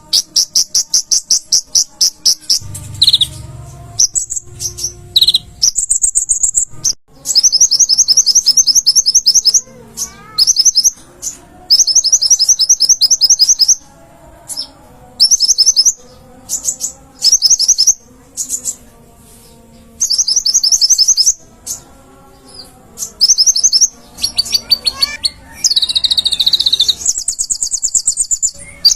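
Konin (kolibri ninja) sunbird singing in full voice: fast, high, trilled phrases a second or two long, repeated again and again with short pauses. A brief low rumble sounds a few seconds in.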